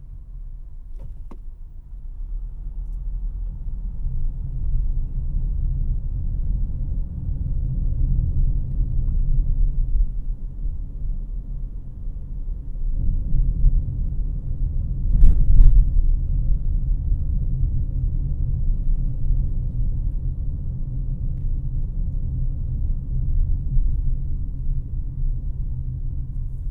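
Cabin noise of a 2018 Honda CR-V LX being driven: a steady low rumble of engine and road, building over the first few seconds. A couple of light clicks near the start and one sharp knock about fifteen seconds in.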